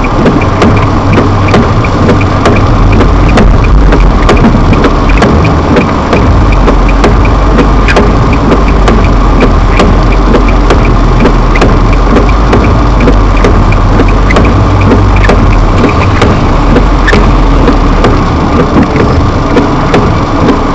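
Car engine running, heard loud and close through a dashcam's built-in microphone, its low hum shifting in strength a few times. Frequent sharp clicks and crackles run over it.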